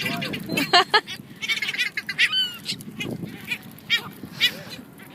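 A crowd of birds jostling for food, giving many short, harsh calls that overlap one another.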